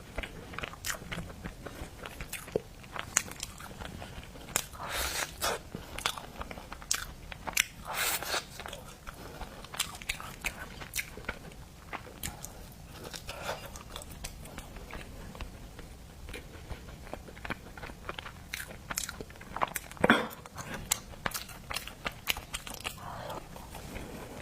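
Close-miked biting and chewing of crunchy, breadcrumb-coated seafood: crisp crunches come irregularly throughout, with one loudest crunch about 20 seconds in.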